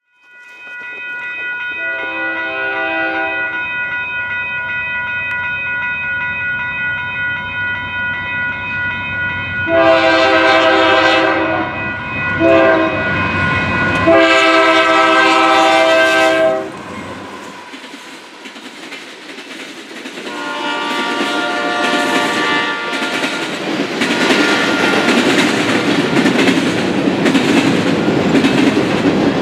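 Union Pacific diesel freight locomotive's air horn sounding the grade-crossing signal: long, long, short, long. The lead locomotive then passes, and covered hopper cars roll by with a steady clatter of wheels over the rail joints.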